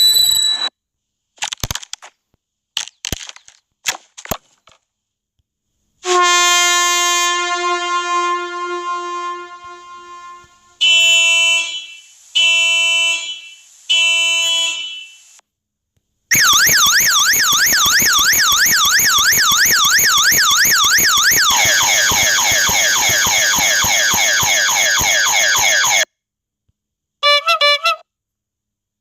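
A string of annoying sound effects: a few scattered clicks, then one long horn blast followed by three short honks about a second apart. Next comes a fast warbling electronic alarm tone that lasts about ten seconds and drops in pitch halfway through, then a brief wobbling tone near the end.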